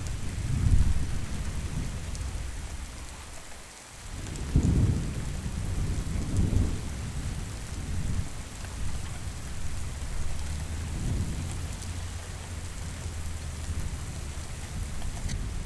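Steady rain with rolling thunder: low rumbles swell about a second in, again in a stronger, longer roll from about four to seven seconds, and once more softly near the end, over the constant hiss of the rain.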